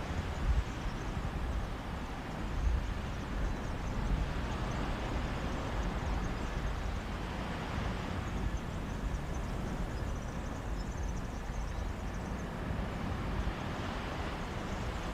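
Sea waves washing onto a beach, with wind rumbling on the microphone. The wash swells about halfway through and again near the end.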